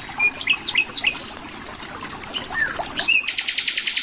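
Small songbirds calling with short high chirps and whistles, then a fast buzzy trill near the end, over a faint steady trickle of spring water.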